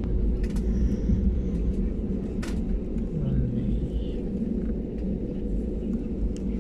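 Airliner cabin noise: a steady low rumble from the jet engines and running gear, with a few short clicks and rattles.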